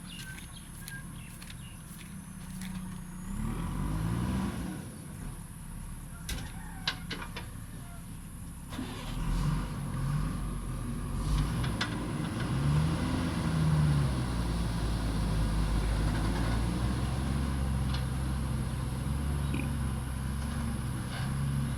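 Diesel engine of heavy earthmoving machinery working, its revs rising and falling again and again and louder from about nine seconds in, with a few sharp metallic knocks.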